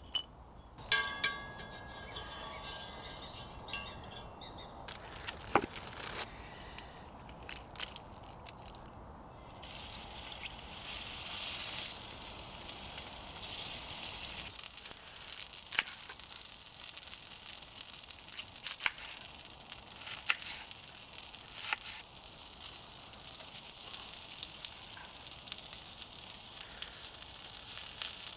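Burger meat sizzling as it cooks over a campfire, a steady high hiss that starts about ten seconds in. Before it come scattered clicks and handling knocks.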